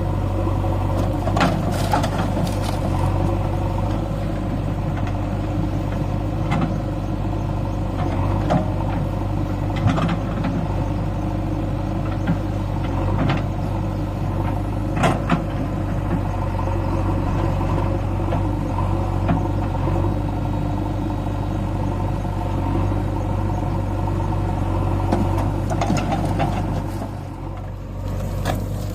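Tractor diesel engine running steadily while pulling a loaded soil trolley, with scattered short sharp clanks over it.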